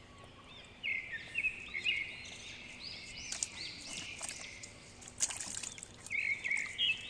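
Small birds chirping, many short rising-and-falling notes in quick series, with a few sharp clicks mixed in.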